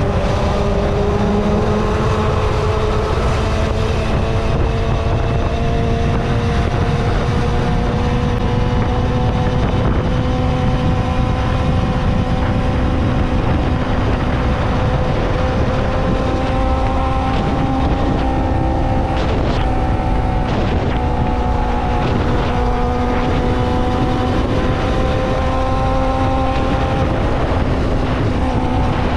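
Kawasaki ZXR250 inline-four motorcycle engine running steadily at high revs while riding, its pitch rising slowly over the whole stretch. Wind rumbles on the microphone underneath.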